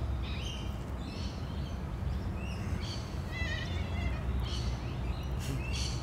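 Wild birds chirping and calling, with a quick run of repeated falling notes about three seconds in, over a steady low background rumble.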